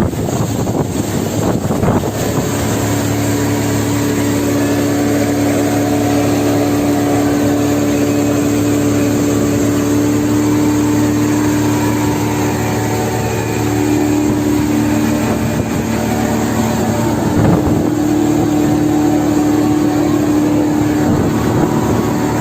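Speedboat engine running steadily under way, its note holding with small shifts in pitch, over a steady rush of noise.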